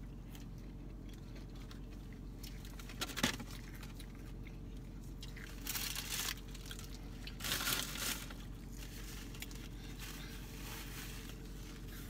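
Close-up chewing of a mouthful of McDonald's french fries, with a few short crinkles of paper packaging, over a steady low hum.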